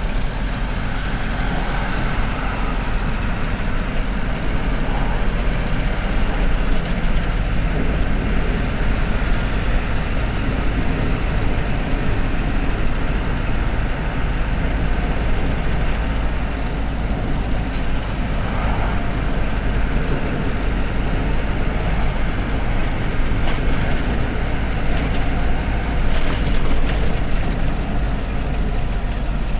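Truck engine running steadily under way, a continuous drone with road noise, and a few brief rattles or clicks in the last third.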